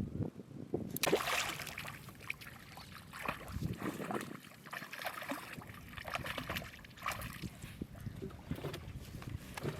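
River water splashing and sloshing, with irregular small knocks and splashes starting about a second in.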